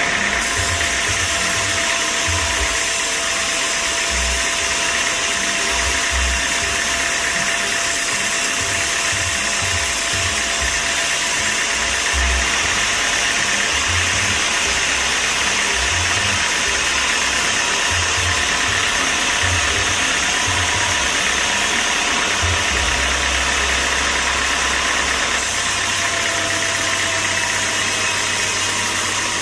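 Sawmill machinery running: a loud, steady mechanical noise with a faint steady hum and irregular low rumbles, turning into a steadier low hum near the end.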